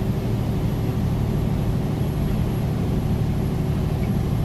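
Semi-truck's diesel engine running steadily at cruising speed, about 40 mph, with tyre and road noise in the snow, heard from inside the cab as an even low drone.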